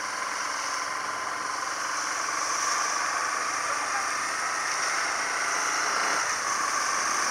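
A steady engine-like drone with a hiss over it, slowly growing a little louder.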